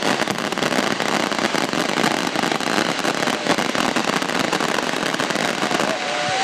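Fireworks display crackling close by: a dense, continuous rain of rapid pops from crackling shells. The crackle thins out near the end.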